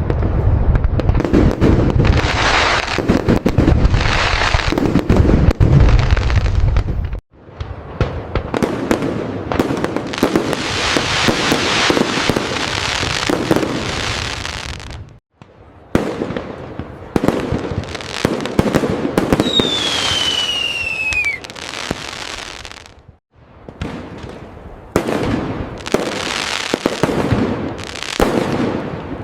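Fireworks: dense crackling and popping, with deep booms through the first seven seconds. A falling whistle comes about twenty seconds in. The sound cuts off abruptly and restarts three times.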